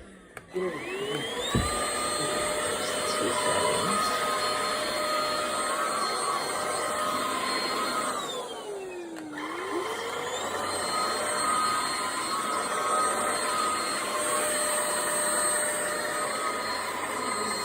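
WOWGO cordless stick vacuum's motor whining as it spins up, running steadily. About eight seconds in it winds down, then spins back up and runs on.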